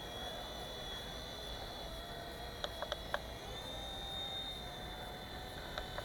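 Small electric RC helicopter (WL Toys V911-pro) in flight: its motor and rotor whine steadily, the pitch shifting a little as the throttle changes, with a few sharp clicks about two and a half to three seconds in.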